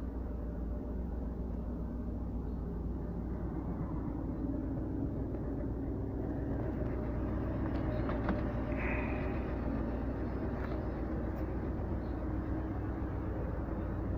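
Car engine idling with a steady low hum and a few faint clicks about halfway through.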